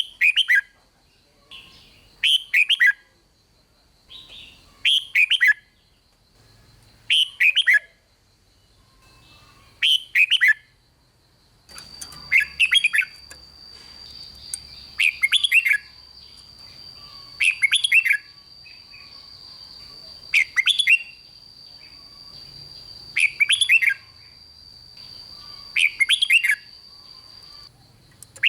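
Red-whiskered bulbul singing short, loud, warbling phrases, repeated about every two and a half to three seconds. A thin steady high whine runs under the song from about twelve seconds in until just before the end.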